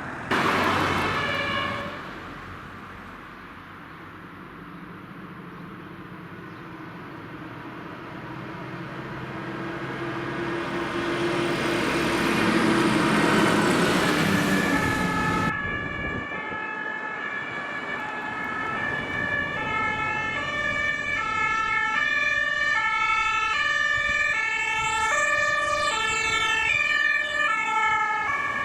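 German fire engine passing with its engine noise swelling and fading. It cuts abruptly to an emergency vehicle's two-tone siren (Martinshorn) alternating between its two pitches about once a second.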